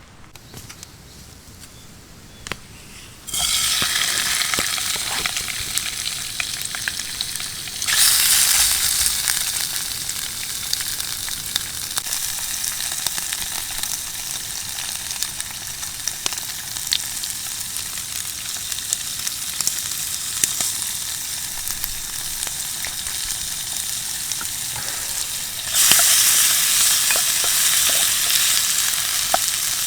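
Food sizzling in a hot frying pan. After a quiet opening with a few small clicks, the sizzle starts suddenly a few seconds in, then jumps louder about 8 s in and again near the end.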